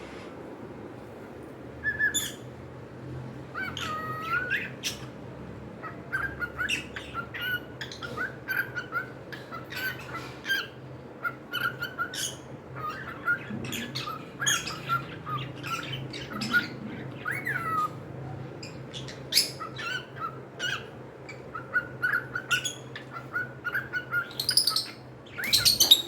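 Pet cockatiels chirping and squawking in a rapid run of short calls and sliding whistles, starting about two seconds in, with a louder burst of calls near the end. A steady low hum runs underneath.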